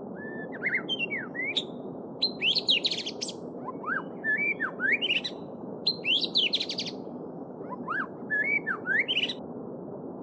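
A songbird singing five short phrases of quick rising and falling whistles and rapid notes, with brief pauses between, over the steady babble of a flowing stream.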